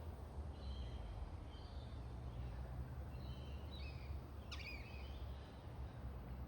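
Small birds in a tree chirping in short high notes every second or so, with a louder call that sweeps down in pitch about four and a half seconds in, over a steady low background rumble.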